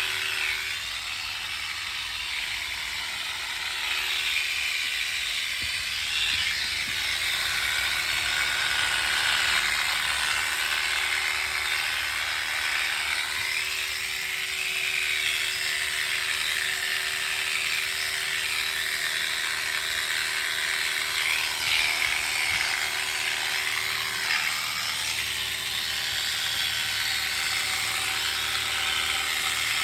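Electric clippers running steadily while shearing a sheep's wool: a constant motor hum with a buzzing hiss from the cutting blades.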